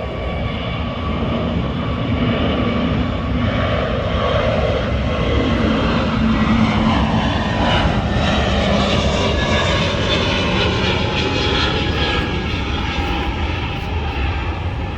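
Jet airliner's engines passing close, building to a peak about halfway through, then the engine tones sliding down in pitch as it moves away.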